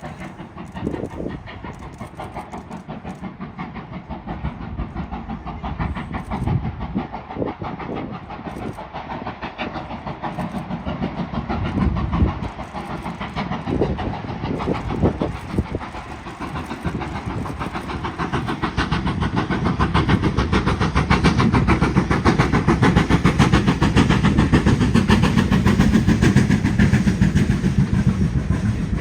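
BR Standard Class 5MT steam locomotive 73082 Camelot running with its train, with a fast, even beat throughout. It grows steadily louder as it approaches, is loudest in the last few seconds, and eases off right at the end.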